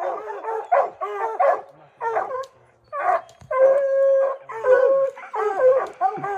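Bear hounds baying at a treed bear: a run of quick chop barks, then a long drawn-out bawl about halfway through and a shorter one after it. This is the steady tree bark that tells the hunters the bear is treed.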